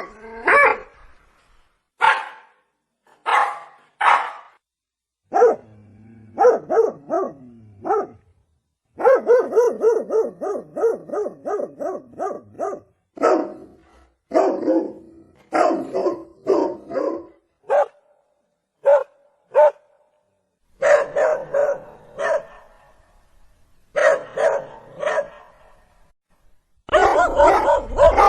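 Dog barking: single barks, and quick runs of barks at about four a second, separated by short gaps of silence.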